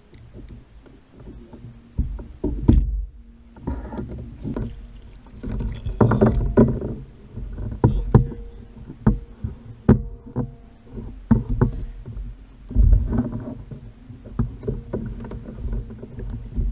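Irregular knocks, bumps and rattles on a Hobie fishing kayak's plastic hull, over a low rumble.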